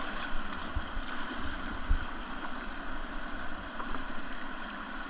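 Steady rush of river whitewater, with a few short low thumps about one and two seconds in.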